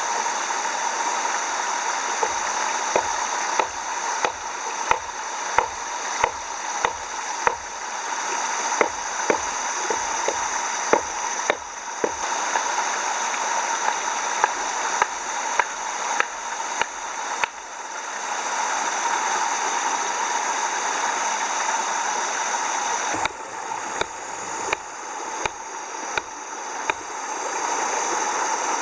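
A series of regular knocks or strikes, about one to two a second, over a steady rushing noise; the knocks stop for a few seconds about two thirds of the way through, then resume.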